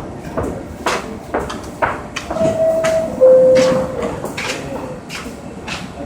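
Subway car door chime sounding two descending tones, the signal that the doors are closing, over scattered knocks and clatter.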